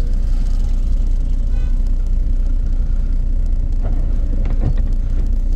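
Steady low engine rumble of a vehicle idling, heard from inside the cabin.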